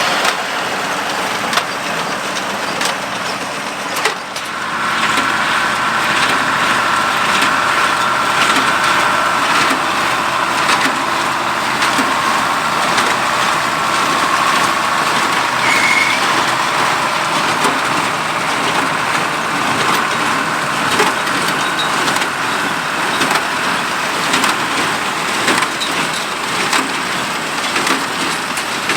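Allis-Chalmers 200 tractor's six-cylinder diesel running steadily under load, pulling a New Holland 273 square baler whose plunger knocks and crunches through the hay in quick repeated strokes. The mix of sound shifts about four seconds in.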